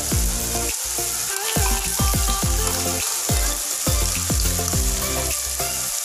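Papaya flowers and pea eggplants sizzling in a hot steel wok, a steady frying hiss. Background music plays over it, with repeated deep bass notes that drop in pitch.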